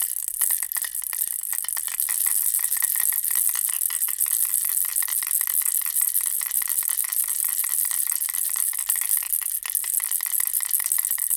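Bear-and-ball baby rattle shaken continuously: a dense stream of fast, bright clicks, getting a little louder about two seconds in and then staying steady.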